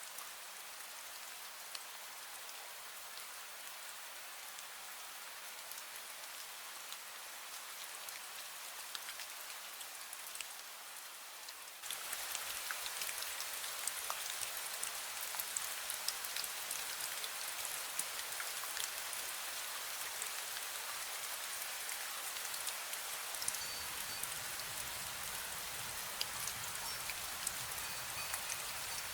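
Drizzle falling steadily, a fine hiss of many small drops pattering on surfaces. It gets abruptly louder about twelve seconds in.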